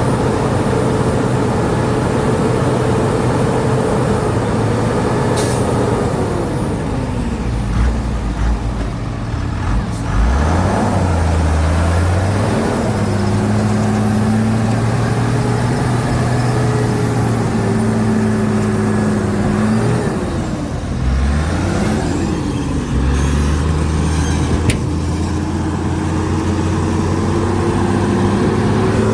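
Heavy diesel earthmoving machinery running under load, the engine note dropping and rising again several times as it throttles down and back up.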